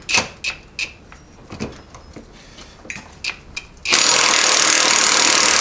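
A dozen sharp metal clinks and taps of tools against steel parts of a truck transfer case. About four seconds in, a loud power tool starts suddenly and runs steadily: really loud.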